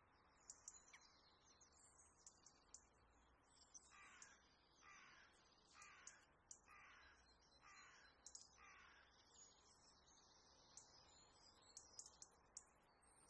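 Birds calling faintly: one bird calls six times in a row, about once a second, from around four seconds in, over scattered high chirping from smaller birds.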